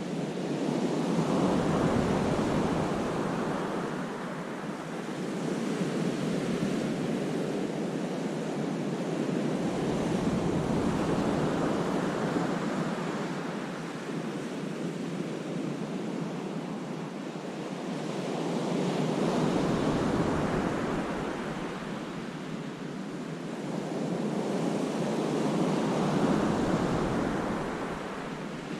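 Sea waves breaking and washing back on a rocky cove, the surf swelling and ebbing in slow surges every several seconds, with wind buffeting the microphone.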